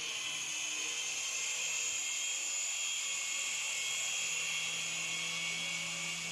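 Small electric propeller motors of a toy infrared remote-control airplane whirring at a steady high-pitched whine.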